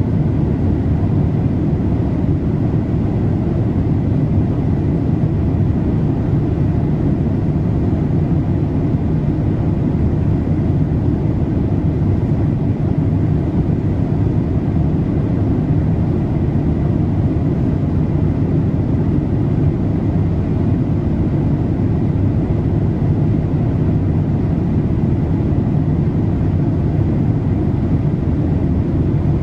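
Steady cabin noise inside a Boeing 787-8 in flight: an even, deep rush of engine and airflow noise, with a faint high tone running through it.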